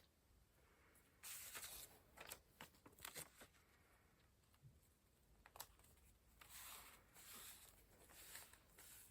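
Faint rustling of paper being handled in several short bursts, with a few light clicks and taps in between.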